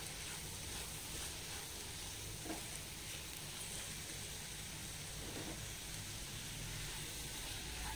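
Onion, tomato and spice-powder masala sizzling steadily in a non-stick kadai over a low flame while it is sautéed to cook off the raw smell of the spices, with a wooden spatula stirring it at the start and a couple of faint light scrapes later.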